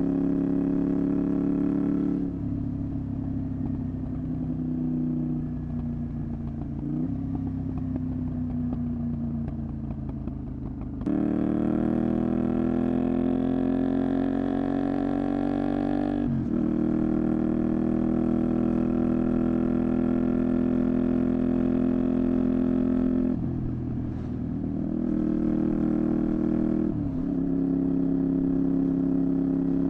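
Honda VTR250's V-twin engine running through a Moriwaki exhaust while the bike is ridden. The throttle closes and the engine runs lower and quieter for several seconds. It then opens up with the pitch climbing for about five seconds before a gear change, runs steadily, and dips briefly again near the end before settling back to a steady pull.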